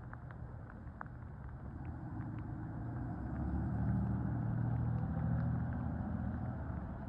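Garbage truck's diesel engine running with a low rumble, growing louder past the middle and easing off near the end. A few light clicks in the first second.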